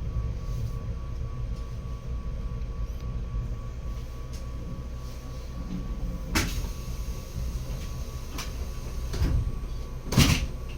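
Train running, heard from inside the carriage: a steady low rumble with a faint steady hum, broken by a few sharp knocks, the loudest near the end.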